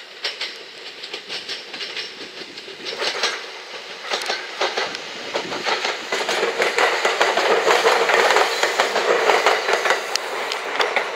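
JR West 227 series electric multiple unit pulling away from a station, its wheels clicking rapidly over the rail joints. The clatter grows steadily louder as the cars roll past.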